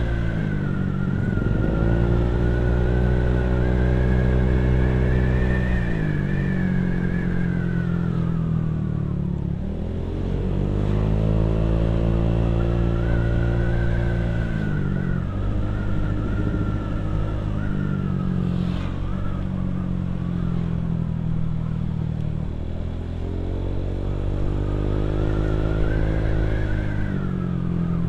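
Motorcycle engine and exhaust heard while riding. The engine speed climbs and falls several times, with sudden drops in pitch between climbs.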